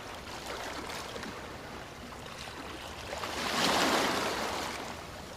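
Heavy typhoon rain pouring steadily, swelling louder for about a second a little past the middle.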